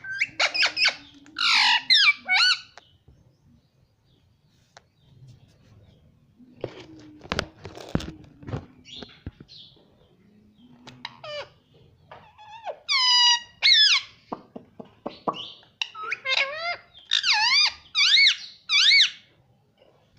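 Ringneck parrot giving shrill, squeaky squawks and calls in bursts: a cluster at the start, another about thirteen seconds in, and a run of wavering calls near the end. Soft clicks and rustles fill the quieter middle.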